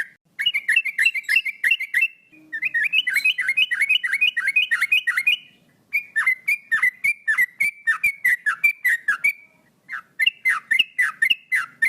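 Male yellow-vented bulbul (trucuk) singing continuously: fast, bubbling phrases of short, falling whistled notes, about six or seven a second, each phrase lasting two to three seconds with brief pauses between.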